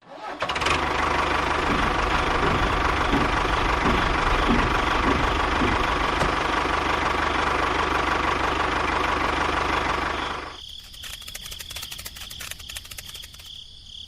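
Small motorised machine running steadily with a dense, rapid rattle, stopping about ten and a half seconds in; a fainter high whine with light ticking follows.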